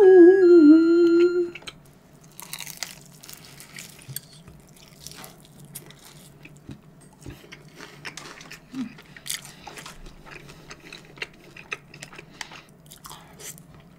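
A short hummed tune, then close-miked chewing and biting into crisp seasoned fried chicken, with scattered crunches of the coating.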